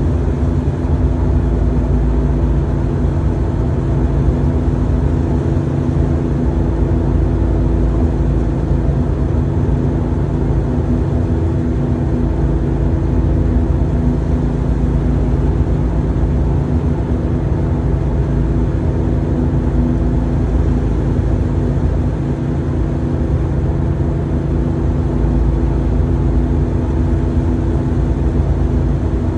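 1990 Porsche 964's air-cooled flat-six engine running steadily at cruising speed, heard from inside the cabin along with road noise.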